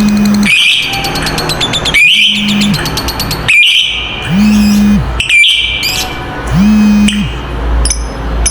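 Lovebirds chattering: shrill calls and buzzy trills repeat about every second and a half, the ngekek chatter kept as a master recording for training other lovebirds. A low steady hum rises and falls in step beneath the calls, about five times.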